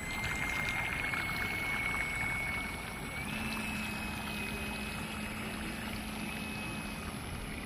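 Electric motor of a home-built RC boat running with a steady high whine, its pitch stepping up slightly about three seconds in, over the rush of water along the hull.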